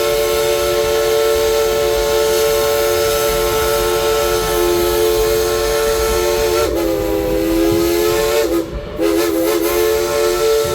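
Steam locomotive whistle blowing one long, loud blast as a chord of several tones at once. Its pitch sags briefly about seven seconds in, and it breaks off for a moment near nine seconds before sounding again.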